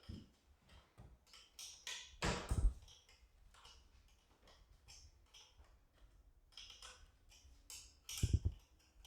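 Light metallic clicks and taps of a 5/16 wrench being worked in short turns on a screw in a garage door opener's gear housing, with two louder knocks, one about two and a half seconds in and one near the end.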